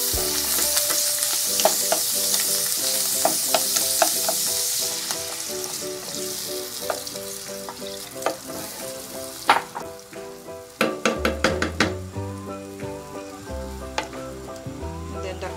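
Mushrooms, butter and garlic sizzling in a nonstick frying pan as a spatula stirs them. About five seconds in the sizzle dies down as chicken stock goes into the pan, and spatula knocks and scrapes against the pan follow. Light background music runs underneath.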